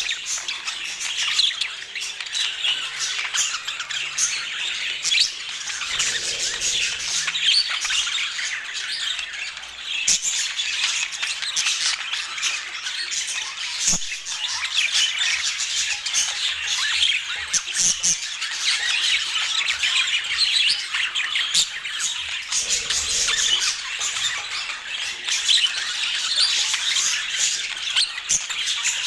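Budgerigars chattering and squawking without a break, many short chirps and warbles overlapping.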